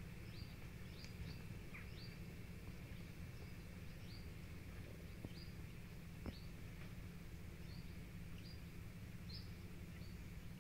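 Quiet riverside ambience: a small bird giving short, high, falling chirps, roughly one a second, over a steady low background noise.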